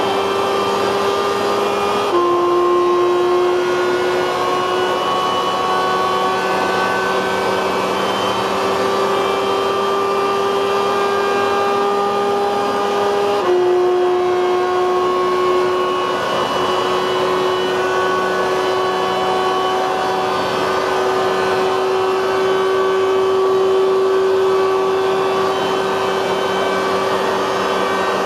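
High-revving supercar engine under hard acceleration, its pitch climbing slowly through long gears. The pitch drops suddenly at an upshift about two seconds in and again about thirteen seconds in.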